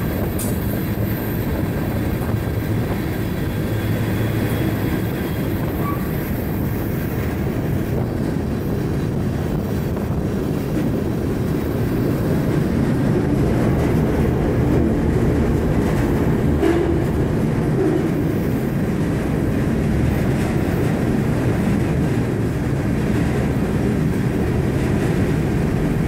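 Freight train running, heard from aboard one of its cars: a steady low rumble with light rattling.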